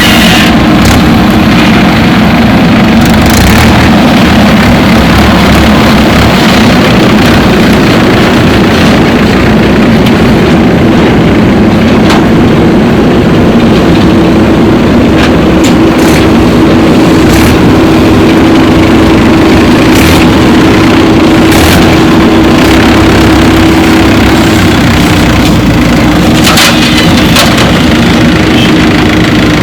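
Heavy machinery's diesel engine running loudly and steadily, its hum holding one pitch, with a few short knocks now and then.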